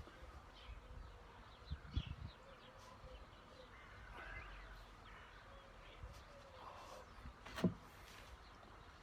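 Faint birds chirping, with a couple of soft low thumps about two seconds in and one sharp knock near the end.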